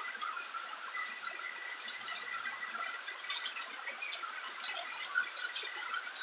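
Rain falling steadily, an even hiss scattered with many small irregular drip and drop ticks.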